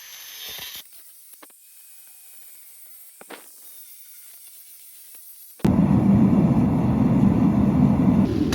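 A high hiss cuts off near the start, followed by near-quiet with a couple of faint clicks. About two-thirds of the way through, a loud, steady rushing noise starts suddenly, heaviest in the low range.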